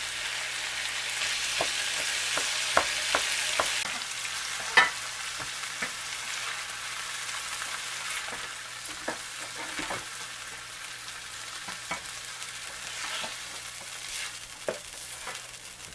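Yellow squash and onions sizzling in oil in a large frying pan, with a spatula scraping and clicking against the pan as the mixture is stirred and scooped out. The sizzle grows fainter toward the end.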